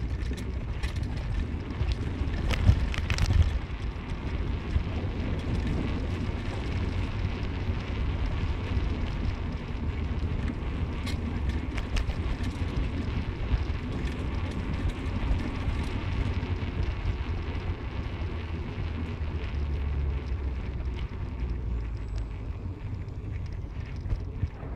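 A car on the move: a steady low rumble of road and engine noise, with a few sharp knocks about three seconds in.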